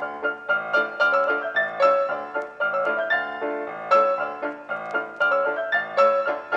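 Piano music, single notes and chords struck in a steady flowing rhythm.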